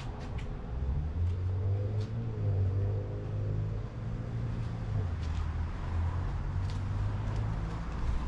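A vehicle engine running, a low steady hum, with a few faint ticks.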